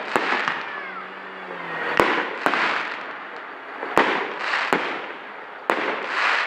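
Fireworks going off: sharp bangs every second or two, with crackling that swells between them.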